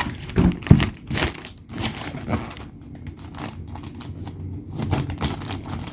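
Packaging being opened by hand: irregular crinkling and rustling, with a few louder sharp scrapes in the first second.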